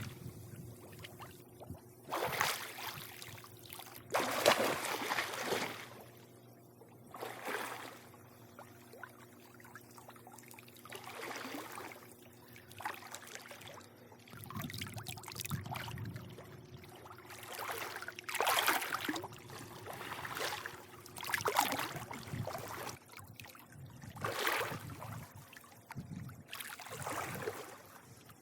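Swimming-pool water lapping and sloshing in irregular swells every one to three seconds, over a faint steady low hum.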